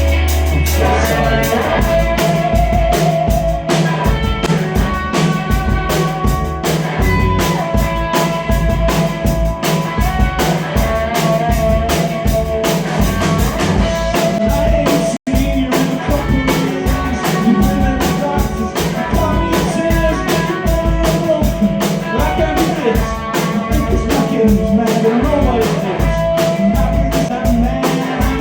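Instrumental passage of a rock song: a drum kit keeps a steady beat under guitar and a held, wavering lead melody line. The sound cuts out for a split second about halfway through.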